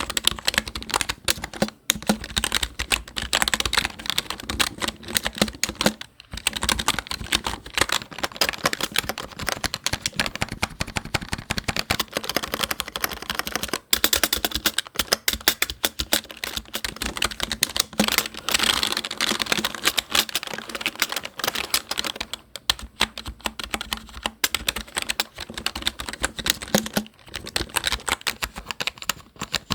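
Fast, continuous typing on a computer keyboard: a dense stream of key clicks, broken by short pauses about six, fourteen and twenty-three seconds in.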